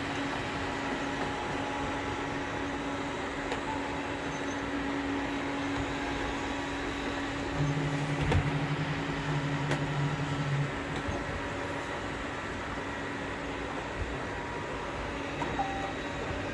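Robot vacuum cleaners running: a steady whirring noise with a constant motor hum. A deeper hum joins about seven seconds in and lasts about three seconds.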